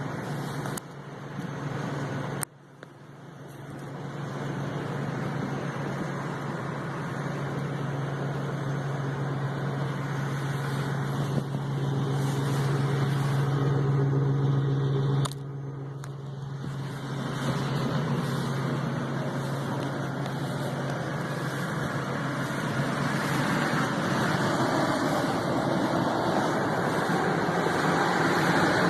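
2001 Ford F-150 engine running steadily after a cold start, a constant low hum with noise over it. The sound breaks off abruptly about two and a half seconds in and again about fifteen seconds in, then carries on.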